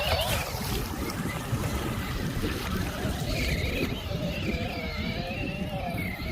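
Electric RC car motor whining, its pitch wavering up and down with the throttle, over wind rumbling on the microphone.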